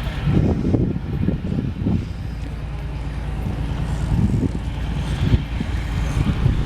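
Large diesel truck engine running steadily at idle.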